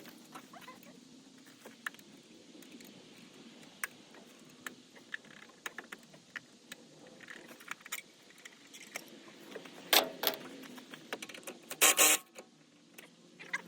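Light metallic clinking and rattling of tools and hardware being handled, with two louder clattering bursts about ten and twelve seconds in.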